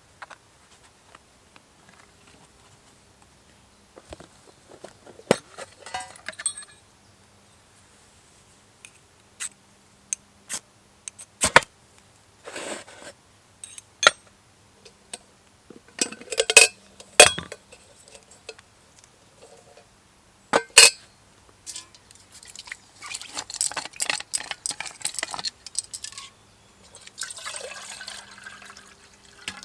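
Camp cookware and utensils being handled: scattered clinks and sharp knocks, then several seconds of denser rattling and rustling toward the end.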